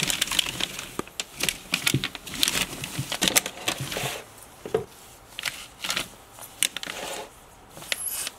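Rustling and crinkling with many light clicks and taps, busiest in the first half: handling noise in and around a snake enclosure.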